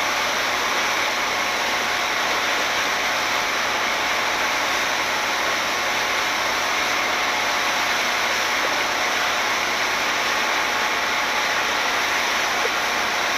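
A steady, even rushing noise that sets in suddenly and holds level throughout.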